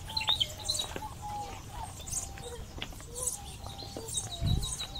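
Several birds calling together, a mix of short whistled notes, chirps and a quick run of high ticking notes near the end. A brief low thump comes near the end.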